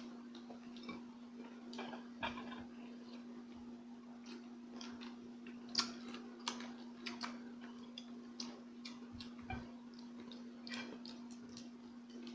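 Close-up eating sounds: irregular crisp clicks and crunches of someone chewing crunchy food such as fried shrimp or dried fish, over a steady low hum.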